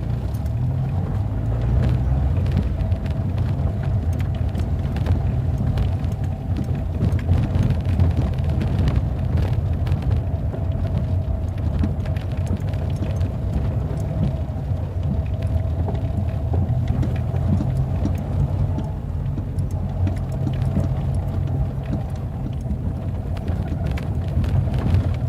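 A vehicle on the move: a steady low rumble with a faint constant hum and scattered small rattles and knocks.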